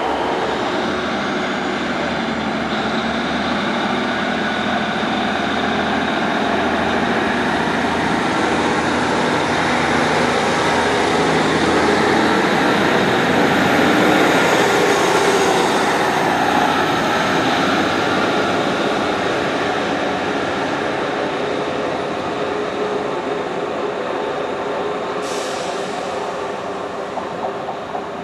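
Class 150 diesel multiple unit running past on the rails, growing louder to a peak about halfway through and then fading away.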